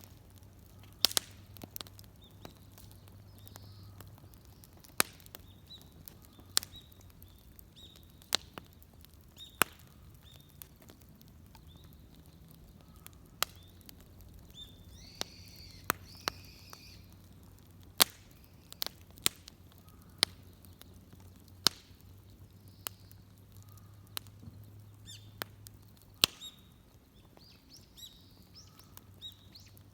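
Wood bonfire crackling, with sharp pops coming at irregular intervals, some much louder than others. Faint bird chirps are heard around the middle and again near the end.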